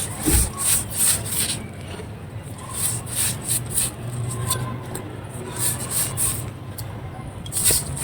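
Dry clay crumbling under light pressure: a run of crisp, crunchy crackles in irregular clusters, loudest about half a second in and again near the end, over a steady low hum.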